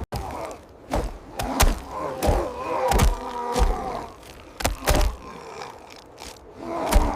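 A string of heavy thuds and whacks, about eight irregular strikes, with groaning, voice-like pitched sounds between them.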